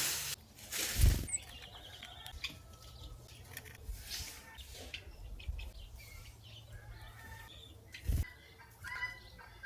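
Small birds' wings flapping as they land on and leave a feeding box, in short flutters: the loudest about a second in, others near four and eight seconds. A few short bird chirps near the end.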